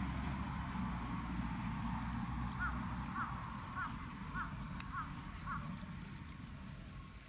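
A bird calls six times in an even series, a little under two calls a second, over a steady low rumble.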